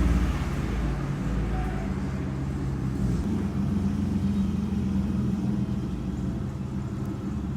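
BMW E30 race car's M52 straight-six engine running at a fairly steady speed, a low even drone without revving.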